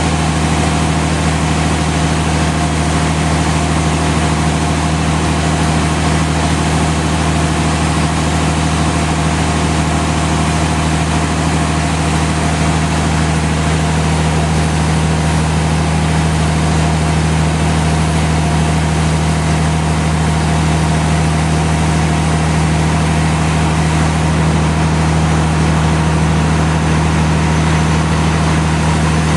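Sawmill machinery running steadily: a constant loud motor hum that stays level in pitch and loudness, with no saw cut starting or stopping.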